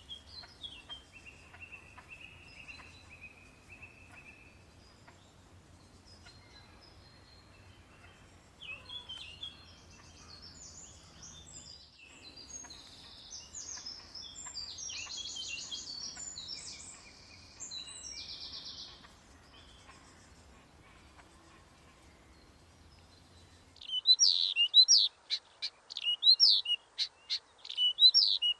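Wild birds singing and calling: a held high note at first, then varied chirping song phrases. About 24 seconds in it changes abruptly to much louder, sharp, rapid chirps.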